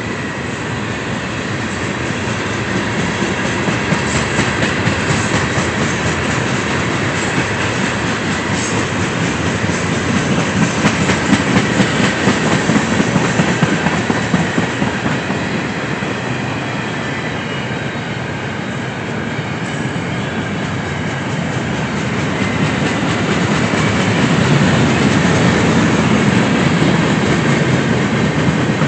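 A train rolling past, its cars' wheels clicking over the rail joints in a steady clatter that swells and eases.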